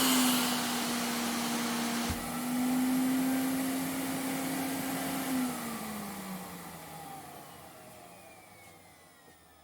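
Vacuum cleaner motor running with a steady hum and airflow hiss, then switched off about five seconds in, its whine falling in pitch and fading as the motor spins down.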